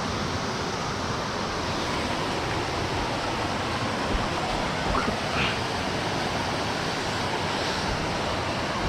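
Steady rush of flowing water from a mountain stream, with a faint brief sound or two about five seconds in.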